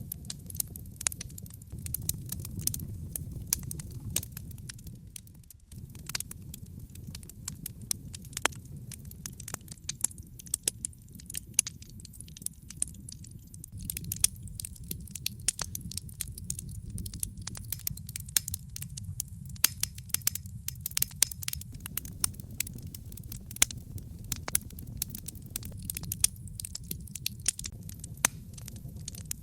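Wood logs burning in an open fireplace: frequent sharp crackles and pops, irregular and closely spaced, over a low steady rumble of the flames.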